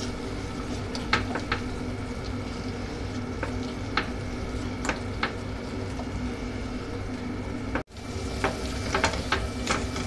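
Thick masala paste frying in oil in a steel kadhai, sizzling steadily, with a spatula scraping and tapping against the pan as it is stirred, in scattered clicks. The paste is being fried until the oil separates from it. The sound breaks off briefly about eight seconds in.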